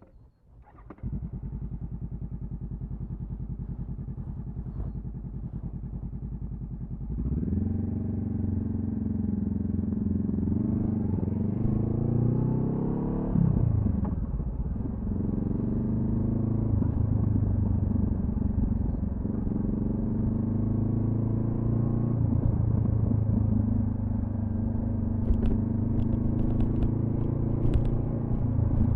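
Honda CB500F parallel-twin engine through a Delkevic carbon slip-on exhaust: about a second in it comes on and runs steadily at idle. About seven seconds in it gets louder as the bike pulls away, revs rising and falling with gear changes.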